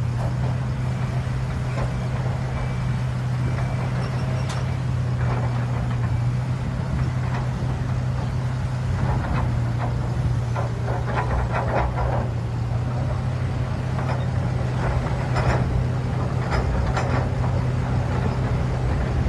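A heavy vehicle engine runs steadily with a constant low hum, with scattered knocks and clanks over it.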